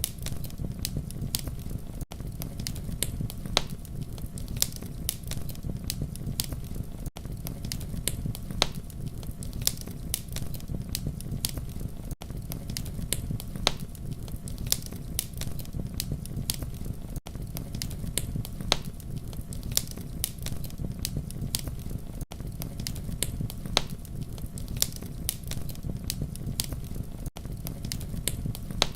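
Wood fire crackling: frequent sharp pops and snaps over a steady low rumble of burning, with a brief dropout about every five seconds.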